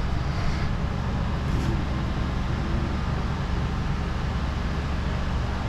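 Portable generator running steadily under a weather cover: an even low engine hum with a hiss above it.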